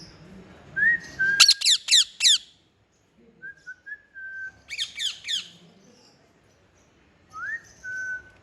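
Green parrot calling: short whistled notes, the first two each followed by a quick run of four or five high, falling squawks, and a last whistle near the end.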